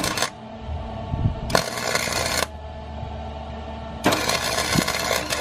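Welding arc crackling in three bursts as beads are run on an exhaust pipe: a brief one at the start, one of about a second beginning about one and a half seconds in, and another starting about four seconds in.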